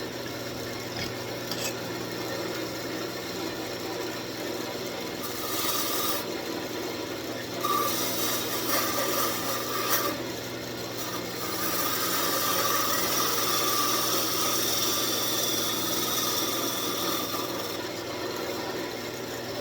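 Wood lathe running with a walnut rosette spinning in the chuck, and a tool rubbing against the turning wood in long stretches from about five seconds in to near the end, with a faint whine over the scraping.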